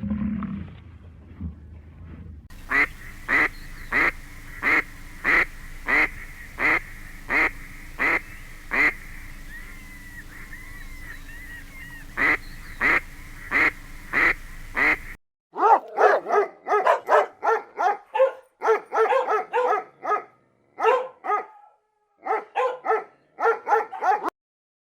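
Animal calls in two runs. First, a long series of short, evenly spaced calls, about two a second, over a steady hum. Then, after a sudden cut, a different animal gives quicker clusters of honking calls.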